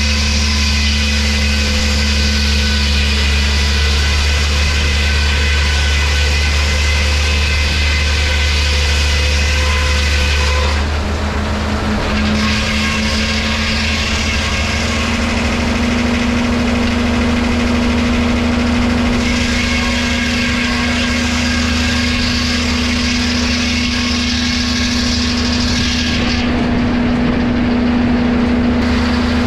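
Engine-driven woodworking machinery running steadily with a constant low hum. A higher hiss drops away about eleven seconds in, comes back, then fades again near the end.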